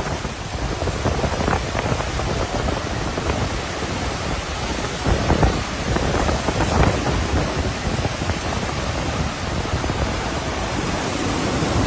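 Niagara Falls: the steady roar of a huge volume of falling water, a dense even rush with a rumbling low end.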